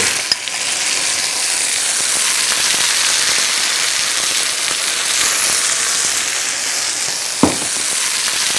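Chicken breasts sizzling steadily as they sear in hot oil in a frying pan. A single short knock comes about seven seconds in.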